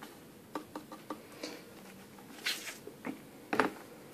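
Handling of a plastic laptop keyboard dock: a series of light clicks and taps, a brief rustle, then a firmer knock near the end.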